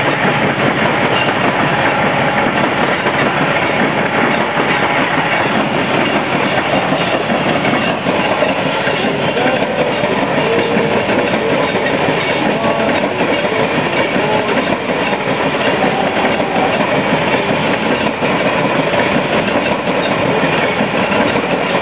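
Coal train's cars rolling past on the rails: a steady, loud rumble and clatter of steel wheels on track.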